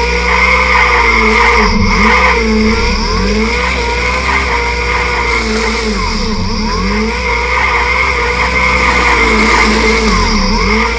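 Synthesized race-car engine sound from a smartphone app, revving up and down in pitch continuously, layered over a steady high whine.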